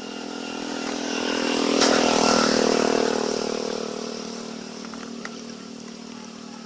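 A small engine running steadily, growing louder to a peak about two seconds in and then fading again.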